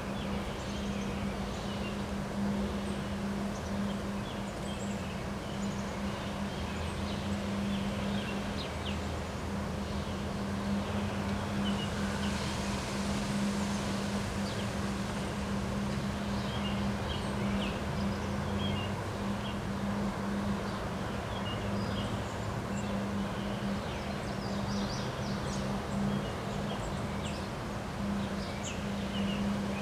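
Wind blowing steadily with many short bird chirps scattered through it, over a constant low hum.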